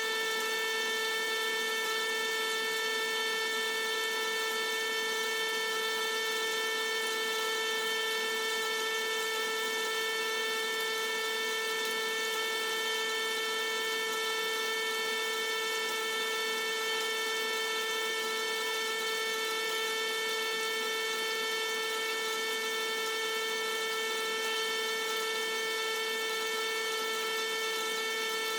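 Small electric pump running steadily, circulating a distilled-water rinse through a tankless water heater after a vinegar descaling flush; an unchanging, even hum.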